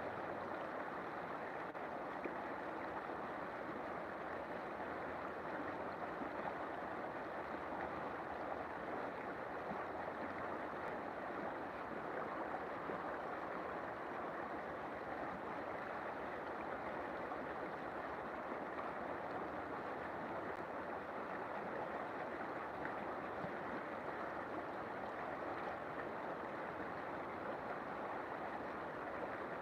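River water flowing and rushing steadily, an even wash of water noise with no breaks.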